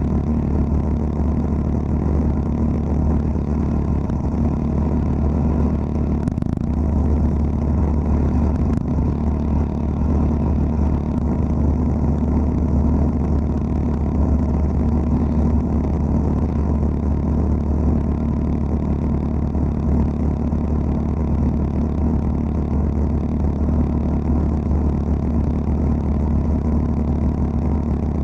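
Wet abrasive blasting machine running steadily: a deep motor hum with a hiss of water-and-abrasive spray over it.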